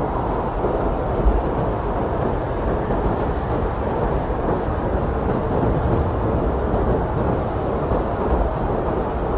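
Blizzard wind blowing hard and steadily: a continuous deep rushing noise with small swells and no distinct gusts or breaks.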